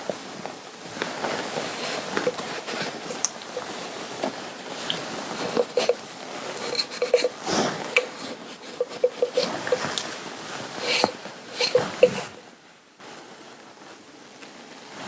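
Fabric being handled and rubbed by hands, a run of soft rustles with small crinkles and taps that quietens for the last couple of seconds.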